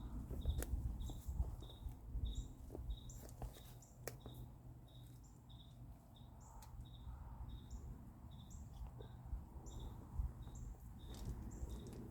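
A steady series of short, high chirps repeating about three times a second, from a small animal such as a cricket or a bird. A few sharp clicks, the loudest one about four seconds in, come from handling the stakes and plants.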